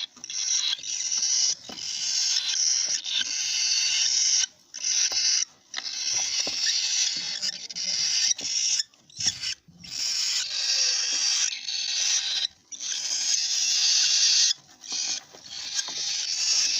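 Caged pet birds singing and chattering: fast, continuous high-pitched trills in long phrases broken by short pauses.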